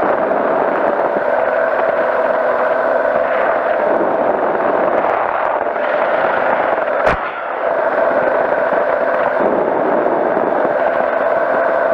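Powered parachute engine and propeller running steadily in flight at an even pitch. A single sharp click cuts in about seven seconds in.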